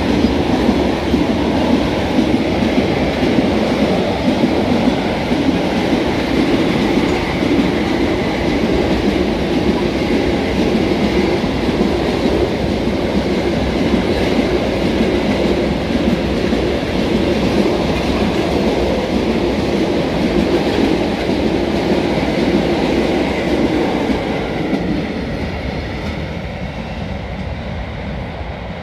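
Freight train of loaded double-deck car-carrier wagons rolling past at close range: a steady rumble and clatter of wheels on the rails, fading away over the last few seconds as the train moves off.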